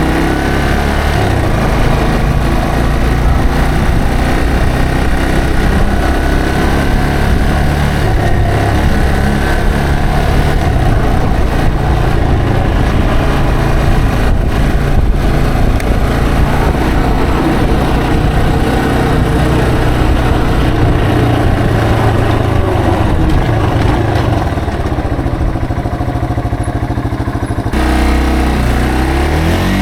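Yamaha TW225 motorcycle's single-cylinder four-stroke engine running under way, its note stepping up and down with the throttle and gears. It eases off, changes abruptly a couple of seconds before the end, then starts to climb again as the bike accelerates.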